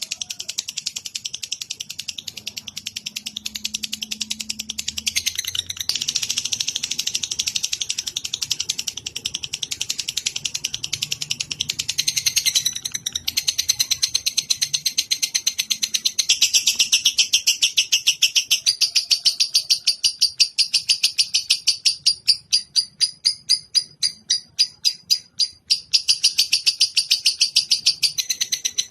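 A cage songbird's rapid, high-pitched trilling chatter: a long unbroken run of very fast notes that changes pattern briefly a few times. This is recorded birdsong played as a masteran, a model song for other birds to learn.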